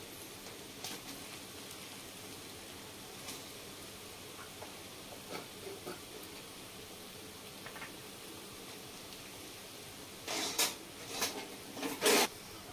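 Cabbage ghonto cooking in a steel kadai with a faint, steady sizzle after a spoonful of ghee has gone in. Near the end, a metal spatula scrapes and clatters against the kadai a few times as the dish is stirred.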